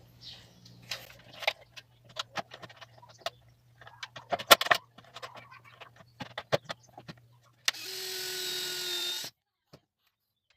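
Clicks and knocks of a wooden cabinet door and its hinge being handled and positioned, then a power drill driving a hinge screw for about a second and a half near the end.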